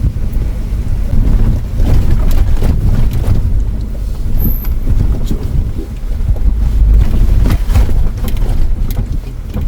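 Inside the cabin of an off-road vehicle on a rough, rocky dirt track: a heavy low rumble of engine and tyres with frequent knocks and rattles as the car jolts over stones and ruts.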